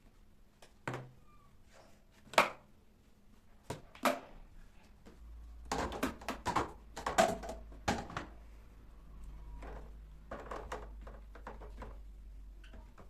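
Household handling sounds: a series of sharp knocks and clatters as things are picked up and set down, busiest in the middle, with a low steady hum setting in about five seconds in.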